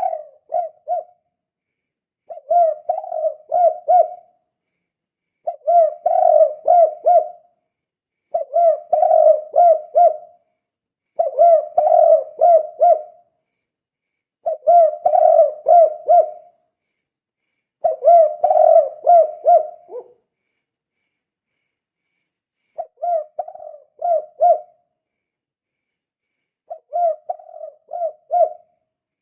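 Spotted dove (tekukur) cooing the 'kuk 2' song type: a phrase of quick coos about 2 seconds long, repeated roughly every 3 seconds. There is a longer pause about two-thirds of the way through.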